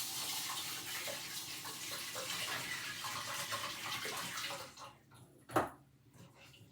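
Kitchen tap running into a bowl of rice for washing, cut off a little under five seconds in; a single sharp knock follows about a second later.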